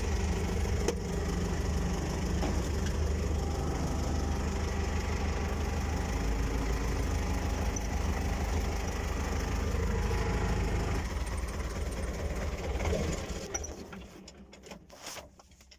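Vehicle engine idling steadily during a cold start, then switched off about three-quarters of the way through; only a few faint clicks follow.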